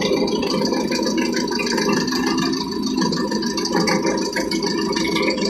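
Euro 4 engine running with a fast, even rattling clatter, now running after its faulty injector was replaced to cure a hard start.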